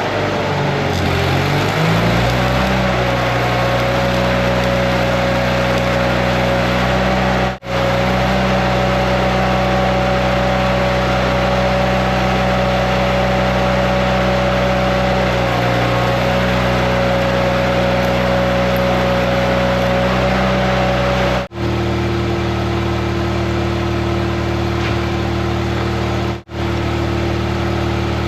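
Heavy diesel engine of an IH Dresser TD25G crawler dozer running at a steady speed, with a steady whine above the engine note. It settles from a slight drop in pitch in the first two seconds. The sound cuts out for an instant three times.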